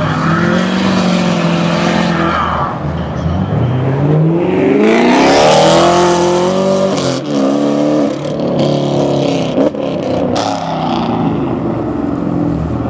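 Cars pulling away one after another, their engines running steadily. A Chevrolet Camaro accelerates hard, its engine note rising steeply and loudest around the middle, then breaking briefly twice as it shifts.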